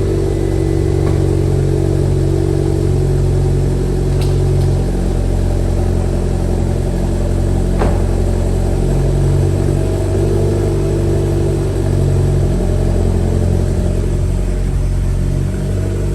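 2008 Mitsubishi Lancer Evolution X MR's turbocharged 2.0-litre four-cylinder idling steadily just after a cold start, heard at its cat-back exhaust with the stock mufflers still fitted.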